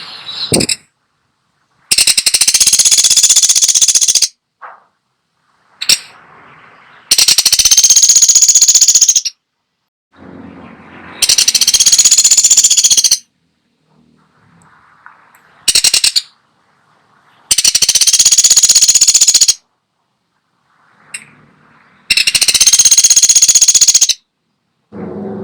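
Woodpecker (pelatuk sampit) giving loud, rapid rattling bursts, each about two seconds long, repeated roughly every five seconds, with fainter sounds in the gaps.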